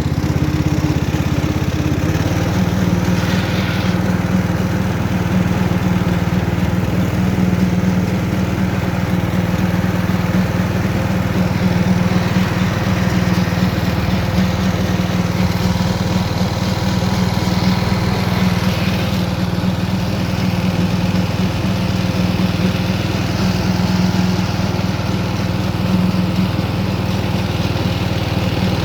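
Riding lawn mower's engine running steadily while it is driven. Its note shifts once about two seconds in, then holds even.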